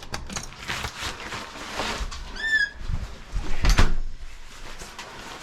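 Rustling and knocks of things being handled, with one short high-pitched squeak about two and a half seconds in and a sharp knock about a second later.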